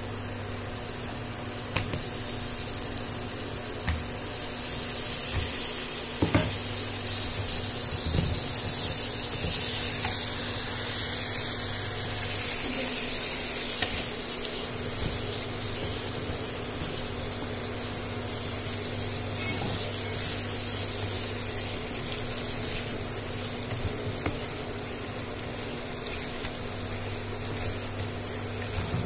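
Dried fish pieces sizzling in hot oil and onion-tomato masala in a nonstick wok, stirred with a wooden spatula that knocks and scrapes against the pan a few times. The sizzling grows louder a few seconds in.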